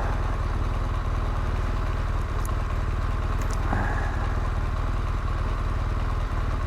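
BMW R1200GSA's boxer-twin engine idling steadily.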